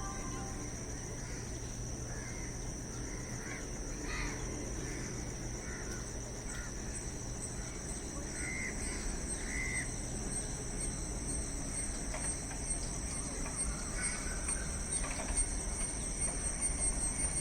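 Birds giving short, scattered calls over a steady high-pitched insect chirring, with a low rumble slowly growing louder near the end.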